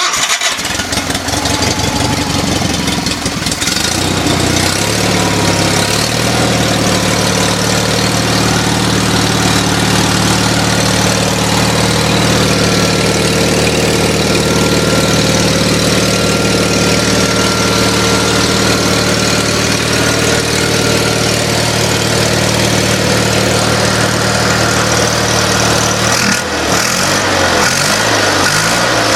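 Onan P128G engine running from a cold start. It runs unevenly for the first few seconds, speeds up and settles into a steady run at about six seconds, and its speed wavers up and down near the end.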